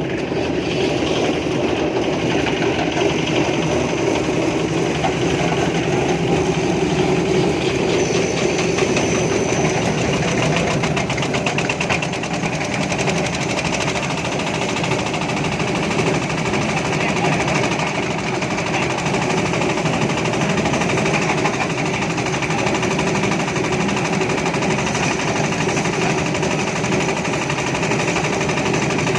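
Small engine of a construction machine running steadily at speed, with a fast, even clatter.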